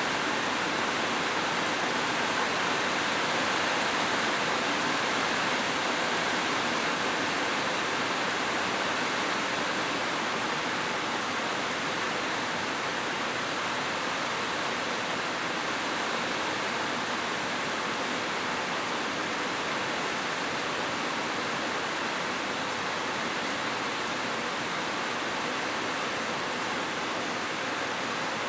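Heavy rain falling steadily, an even, unbroken hiss with no individual drops standing out.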